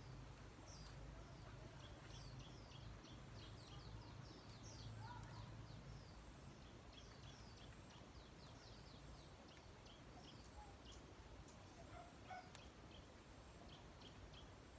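Faint birds chirping over and over, many short, quick falling chirps, over a low, steady hum.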